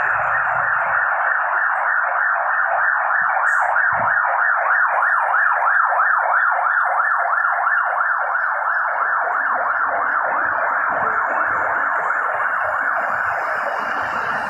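Emergency vehicle siren sounding a rapid yelp, its pitch sweeping up and down a few times a second, easing off slightly near the end.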